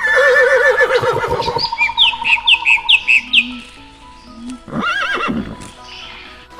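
Horse whinnying: a loud, warbling call lasting about a second and a half. It is followed by a run of five short, high, falling chirps and another brief call about five seconds in.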